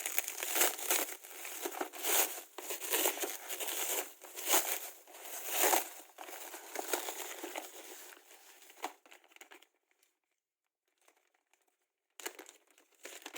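Packaging being handled and opened, crinkling and rustling in irregular bursts, with some tearing; it stops about ten seconds in and starts again briefly near the end.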